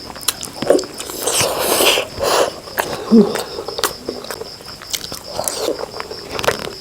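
Close-miked eating sounds: irregular biting, chewing and mouth smacks.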